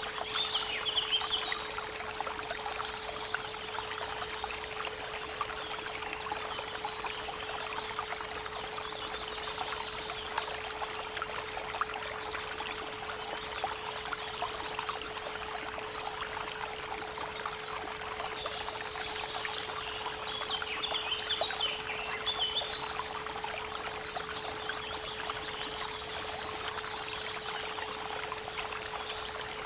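Steady 432 Hz pure tone over the continuous rush of creek water, with birds singing in short chirping phrases, clustered about a second in, around ten seconds in and again around twenty to twenty-three seconds in. A short, high, buzzy trill recurs about every fourteen seconds.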